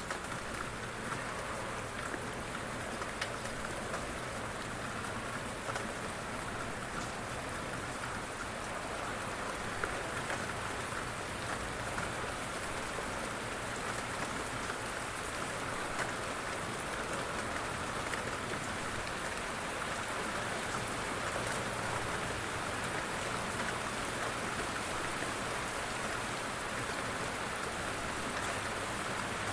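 Steady rain falling on a surface, an even hiss with scattered drops ticking through it.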